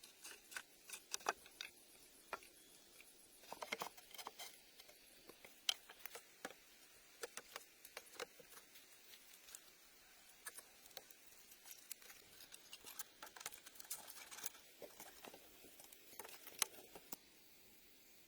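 Faint, irregular small clicks and taps, with a few sharper ones about six seconds in and near the end.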